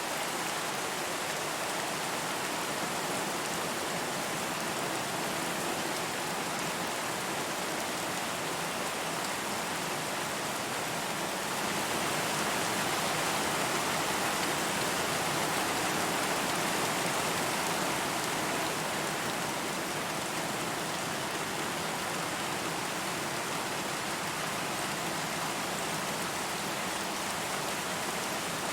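Steady rainfall, an even hiss of falling rain, swelling a little louder for a few seconds in the middle.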